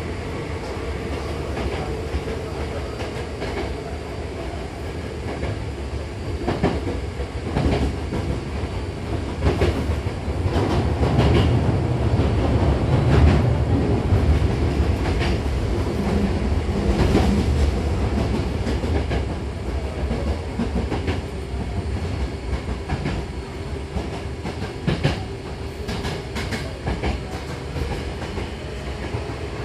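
Interior running noise of a Hankyu 7000 series electric commuter train in motion: a continuous rumble of wheels on rails with irregular clacks as the wheels pass over rail joints, loudest about halfway through.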